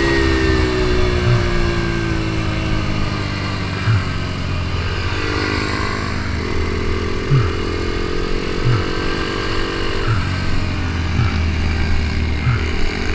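Onboard sound of an Ohvale mini GP bike's single-cylinder four-stroke engine, its pitch falling over the first few seconds as the bike slows, then running at a steady, light throttle. Wind rush on the microphone rumbles underneath, with short low thumps every second or so.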